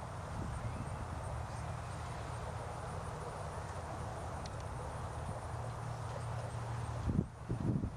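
Outdoor natural ambience: a steady, even hiss with a low rumble under it, and a few short low thumps near the end.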